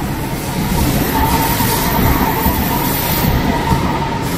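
Deutsche Bahn ICE high-speed train moving past along a station platform: a steady rumbling rush with a thin whine above it. It swells to its loudest about two seconds in, then eases off.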